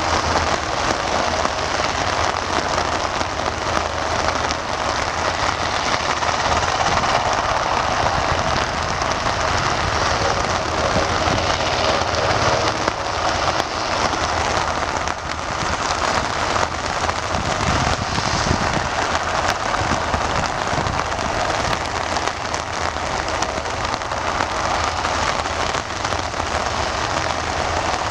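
Steady rain falling, an even, continuous hiss of drops on surfaces.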